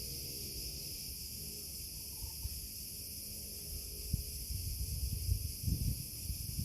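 Steady high-pitched insect chirring. Low, irregular rumbling comes in over the last two seconds.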